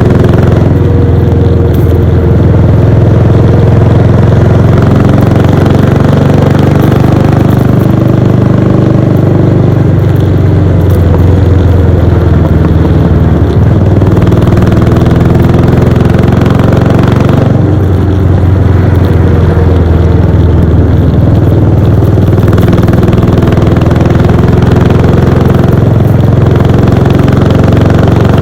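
Royal Enfield Bullet 500's single-cylinder engine and exhaust running steadily under way, its pitch shifting a few times as the throttle opens and closes, with a brief dip near the middle.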